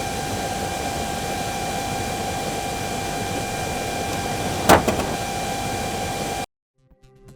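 Steady rush of strong wind with a steady whine under it, and a car door banging once with a sharp knock about two-thirds of the way in, a wind-blown door striking in a strong-wind door-opening test. The sound cuts off suddenly near the end.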